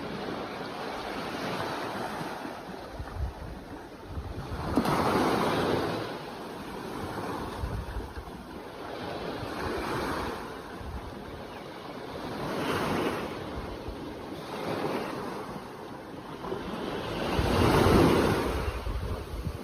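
Sea waves washing in, a rushing noise that swells and falls every few seconds, the biggest swell near the end, with some wind on the microphone.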